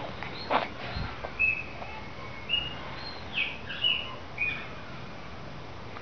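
A bird chirping: a run of about six short, clear high notes spread over a few seconds, starting about a second and a half in. A brief sharp click or rustle comes just before the first chirp.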